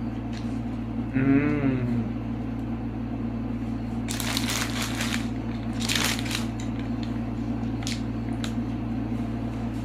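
Close-up eating sounds of a burger: a hummed 'mm' about a second in, then two loud crunchy bites or chews around the middle, followed by a few small mouth clicks over a steady low room hum.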